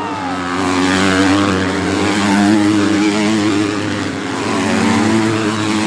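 Motocross bike engines running and revving as the bikes race on the track, the engine note swelling and fading as they pass.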